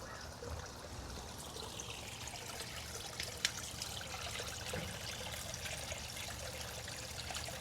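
Water trickling and splashing steadily into an aquarium, with one small sharp click about three and a half seconds in.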